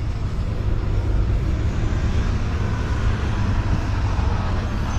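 City street traffic: vehicles running past on a snowy downtown street, a steady low rumble with a continuous hiss of road noise.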